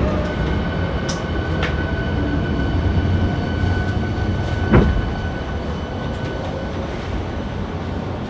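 Hankyu 7300-series train car running, heard from inside: a steady rumble with a thin steady whine, and one sharp wheel knock on a rail joint about five seconds in. This is the car noted for its unusual running noise.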